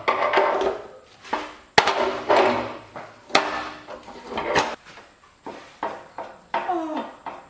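Irregular scraping strokes, each about a second long, with sharp knocks between them, from hand work on parts. A short squeak falls in pitch near the end.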